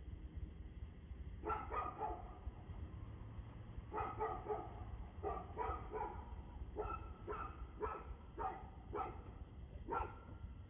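A dog barking repeatedly in short runs of two or three barks, about fifteen barks in all, with pauses of about a second between runs.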